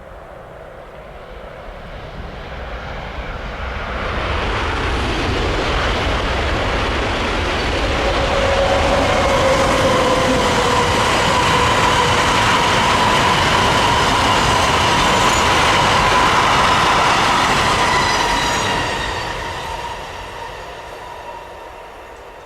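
A train passes close by on the main line. The sound builds over the first few seconds, holds loud for about fifteen seconds with a steady whine over the rolling noise, then fades away near the end.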